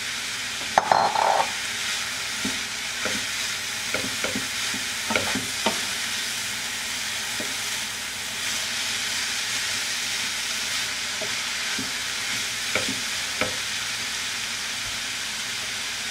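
Spaghetti squash, vegetables and walnuts frying in oil in a pan, a steady sizzle, while a wooden spoon stirs and scrapes through them, knocking on the pan a number of times. A louder clatter about a second in is the loudest sound.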